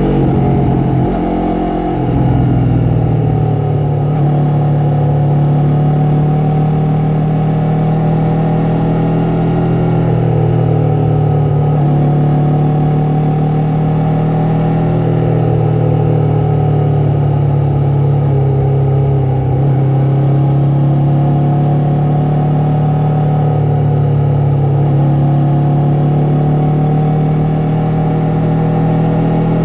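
Yamaha MT-03's parallel-twin engine and exhaust running under way at a fairly steady pitch. The revs shift about two seconds in, then ease off and pick up again gently every few seconds.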